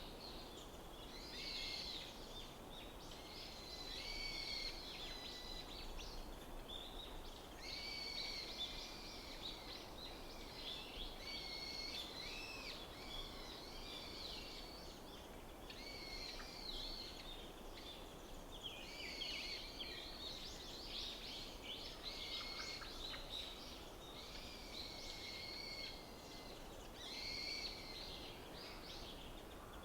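Wild forest birds singing in short repeated phrases, one bout every few seconds, over a low steady rumble.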